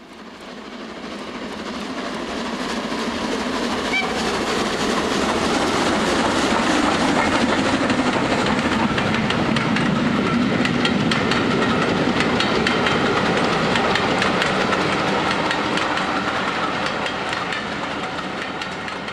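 A train running on rails: a steady rush with a rapid run of clicks, fading in at the start and fading out near the end.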